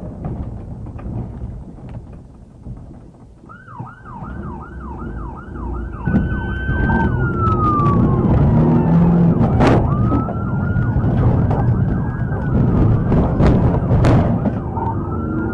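Police patrol car siren coming on over vehicle engine and road noise, starting about three and a half seconds in. It begins as a fast yelp, then changes to a slower rising and falling wail. Two sharp clicks are heard in the second half.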